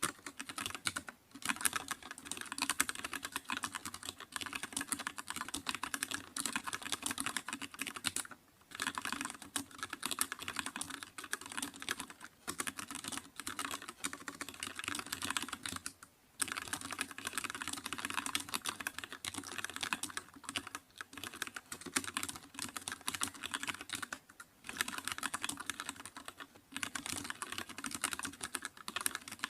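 Fast, continuous typing on a computer keyboard, a dense stream of key clicks with a few brief pauses.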